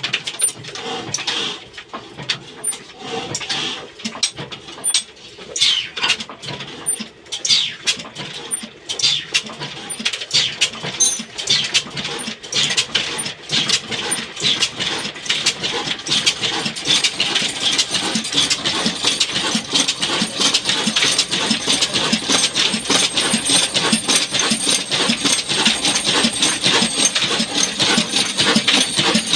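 Old Ruston Hornsby stationary diesel engine starting up after being hand-cranked by its flywheel: separate exhaust beats at first, picking up speed about halfway through into a steady, faster run.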